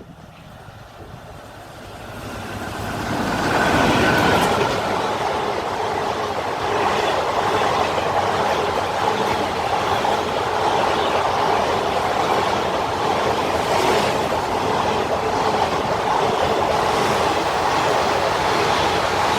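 Electric-locomotive-hauled passenger train running past on the rails. The noise builds over the first four seconds, then holds as a steady rumble of wheels on track, with occasional clacks over the rail joints.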